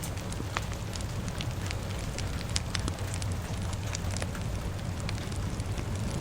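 Fire crackling, with frequent irregular sharp pops over a steady hiss of rain and a continuous low rumble.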